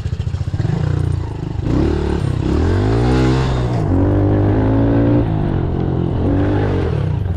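Pit bike engine chugging at low revs, then revving up and down and holding steady as the bike is ridden off-road.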